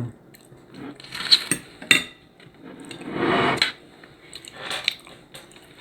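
A fork or spoon clinking and scraping against a dinner dish while eating: a couple of sharp clicks, a longer scrape a few seconds in, then more clicks.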